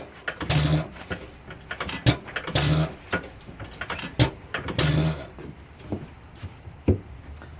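1916 Woodpecker 1.5 hp hit-and-miss engine being cold-started. A sharp click comes about every two seconds, and each is followed by a short, low chuff.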